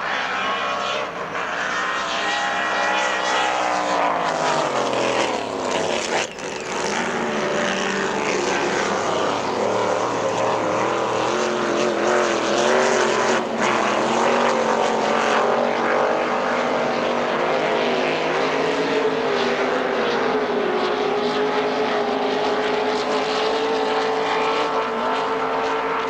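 Racing powerboat engine running. Its pitch falls over the first several seconds, then wavers up and down and settles into a steady drone near the end.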